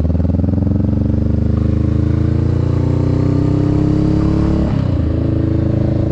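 Motorcycle engine accelerating, its pitch rising steadily, then dropping sharply a little before the end as the rider shifts up a gear, and holding steady after that.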